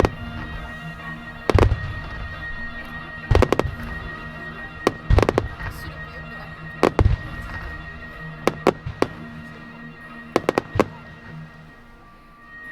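Aerial firework shells bursting with sharp bangs, first singly, then in pairs and finally in threes, every second and a half or so, over music with long held notes.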